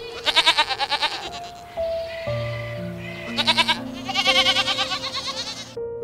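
Goats bleating three times with a quavering call, the last bleat the longest, over soft background music with held notes.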